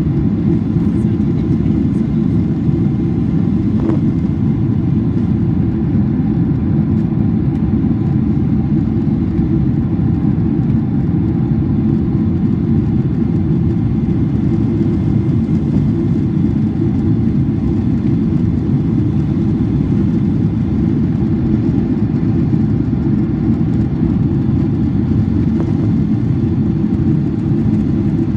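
Steady cabin noise inside a Boeing 767-400ER in flight: a constant low rush of engines and airflow that holds at an even level throughout.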